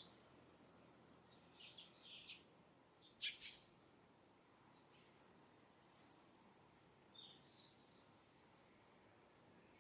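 Faint chirps and song notes of distant wild birds: scattered short high calls, the loudest about a third of the way in, and later a quick run of four evenly spaced notes.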